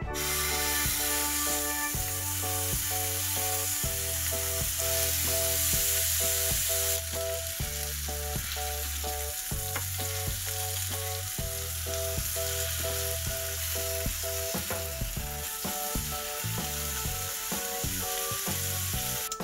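Food sizzling and frying in a hot pan, a steady dense hiss, with background music playing over it.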